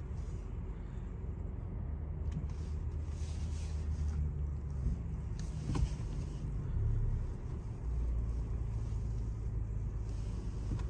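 Car driving in traffic: a low, steady engine and road rumble, with a short knock about six seconds in.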